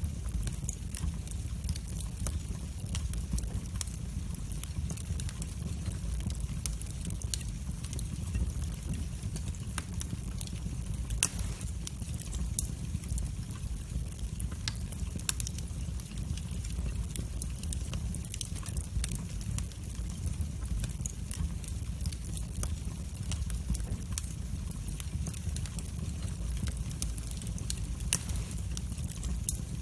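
Wood fire burning in a fireplace, crackling steadily with many small snaps over a low rumble. Two louder pops come about eleven seconds in and near the end.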